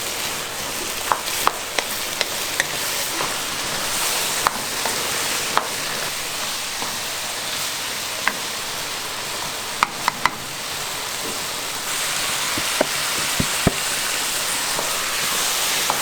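Food frying: a steady sizzling hiss, with scattered sharp pops and crackles.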